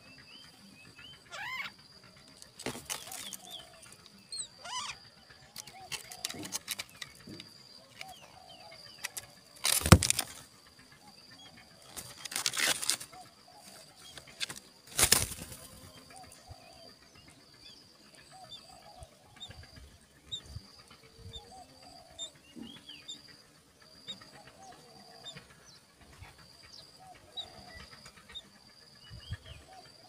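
Faint, short chirps of small birds over a steady high whine, broken by four brief, loud rustles about 3, 10, 12 and 15 seconds in, the one near 10 seconds the loudest.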